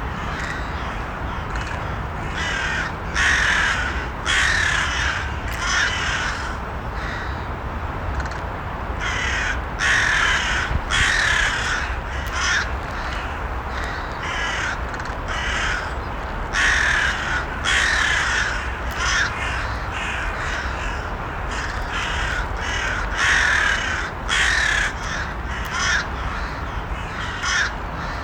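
Crows cawing over and over: short harsh caws in clusters of two or three every few seconds, over a steady low background noise.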